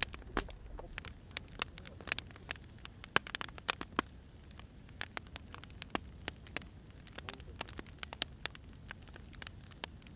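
Firewood burning in a fire, crackling with irregular sharp pops and snaps over a low steady rumble.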